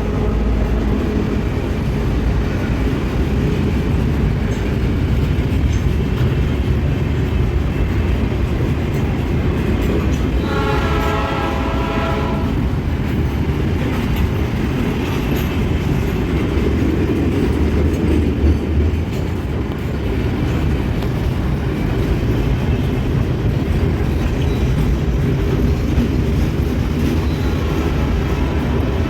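Freight train hauled by EMD GR-12W and ALCo RSD16 diesel locomotives running past with a steady low rumble. About ten seconds in, one horn blast lasts roughly two seconds.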